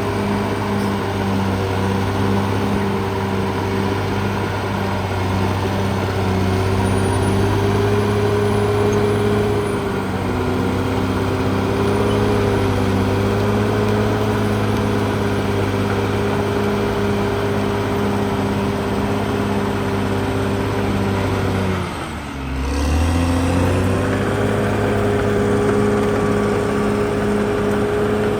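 Cat D6R XL bulldozer's diesel engine running steadily at working revs. About three-quarters of the way through, the engine note sags sharply and picks back up within a couple of seconds.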